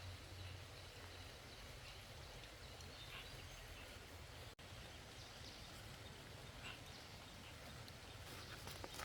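Near silence: faint outdoor background noise with a low hum and a few soft ticks.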